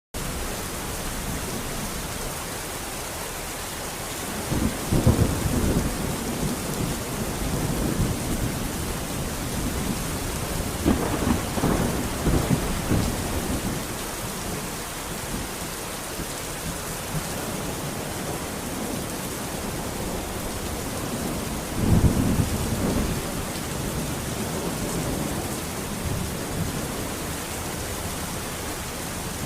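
Steady heavy rain hissing, with thunder rumbling three times, about five seconds in, around eleven seconds and around twenty-two seconds.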